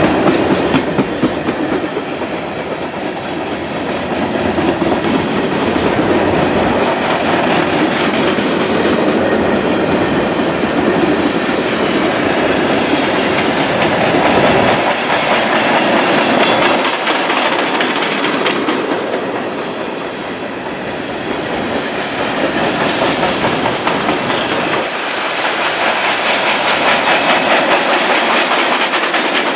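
Freight cars of a long mixed freight train rolling past close by: steady rolling noise of steel wheels on rail, with wheels clacking over the rail joints.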